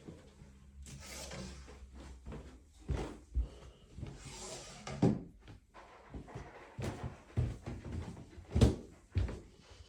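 Irregular knocks and thuds in a small room, with two bursts of rustling about a second in and about four and a half seconds in.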